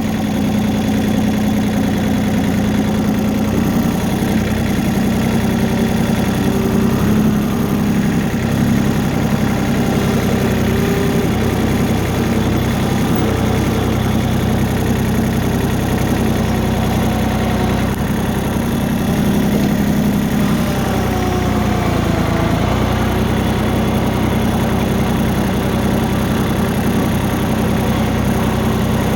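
Tractor engine running steadily, its pitch shifting briefly about two-thirds of the way through.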